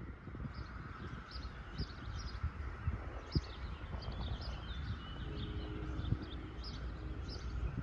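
Small birds chirping over and over over a steady low outdoor rumble, with a faint low tone held for about a second and a half near the end.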